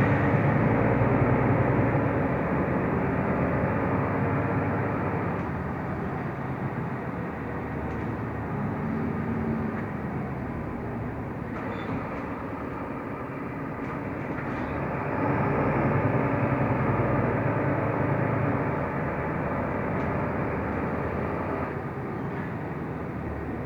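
Mercedes-Benz Türk O345 Conecto LF city bus under way: its diesel engine running with road and cabin noise. The engine gets louder for the first few seconds and again about two-thirds of the way through, as the bus pulls and accelerates.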